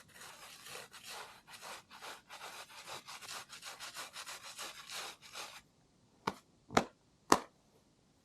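Hand saw cutting through wood in quick back-and-forth strokes, about three or four a second, then stopping; three sharp knocks follow about half a second apart.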